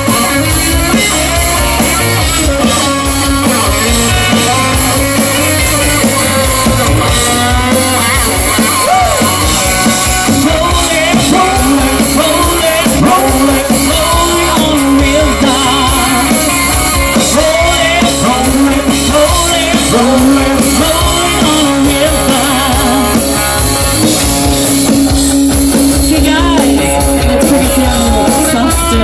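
Live rock band playing: electric guitar and drum kit with a lead vocal singing over them.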